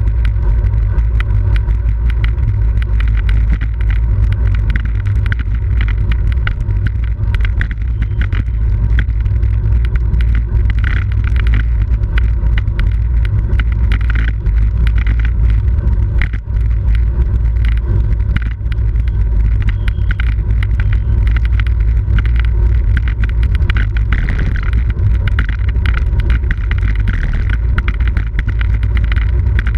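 Loud, steady wind rumble buffeting a camera's microphone while riding at speed in a bicycle road race, with many small clicks and rattles mixed in.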